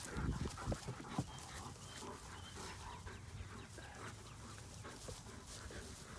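Great Dane's breathing and snuffling close by, strongest in the first second or so, then faint, with a few soft clicks.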